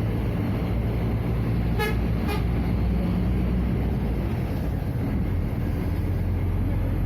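The Scania DC09 five-cylinder diesel of a Scania F250HB bus runs steadily. About two seconds in come two short beeps, half a second apart.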